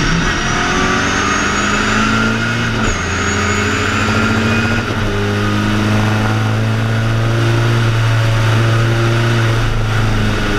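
BMW 2002 ti's four-cylinder engine at racing revs, heard from inside the car. It rises in pitch under acceleration, changes up a gear about three seconds in, then pulls on steadily.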